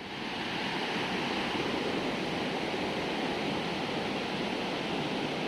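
Steady rushing noise of a moving train, an even roar with no distinct knocks or tones.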